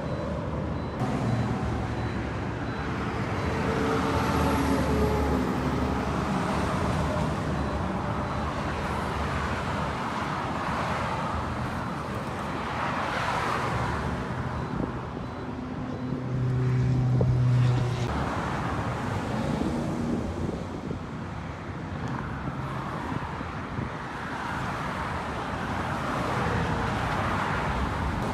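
Freeway traffic: tyre and engine noise of passing vehicles, swelling and fading as they go by, with a deeper engine hum loudest about seventeen seconds in.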